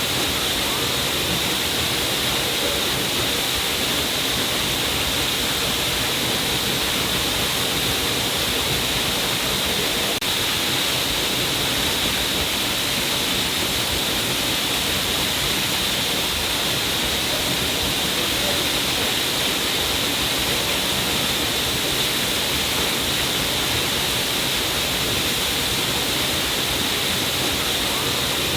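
A stream of water pouring down a cliff face, a steady unbroken rush of falling and splashing water.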